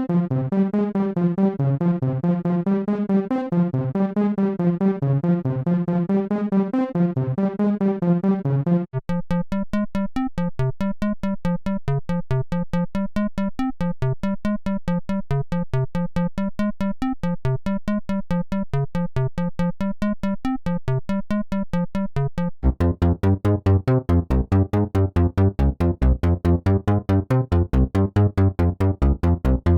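u-he Triple Cheese software synthesizer playing fast runs of pitched notes. The sound changes abruptly about 9 seconds in to a thinner, brighter tone, and again near 23 seconds to a louder tone with more bass.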